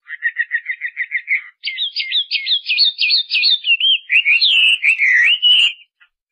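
A songbird singing: first a quick run of short chirps, about eight a second, then a string of varied sweeping whistled notes that stops shortly before the end.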